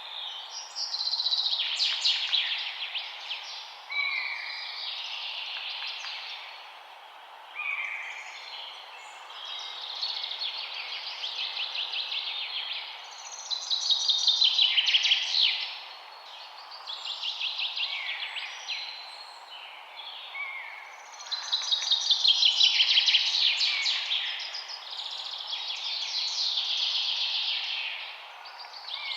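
Songbirds singing in a string of overlapping phrases of rapid chirps and trills, a new phrase every few seconds, over a steady background hiss. The loudest phrases come about halfway through and again about two-thirds of the way in.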